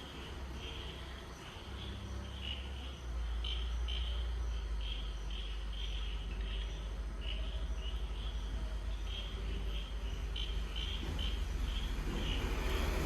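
Crickets chirping: a rapid, uneven run of short, high chirps. Under them is a low rumble that gets louder about three seconds in.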